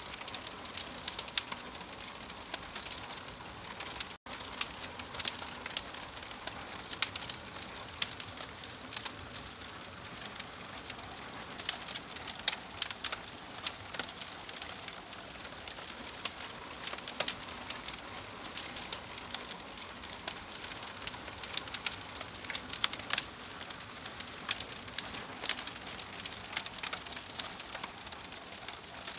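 Fire crackling: irregular sharp pops and snaps over a steady soft hiss, with a momentary drop-out about four seconds in.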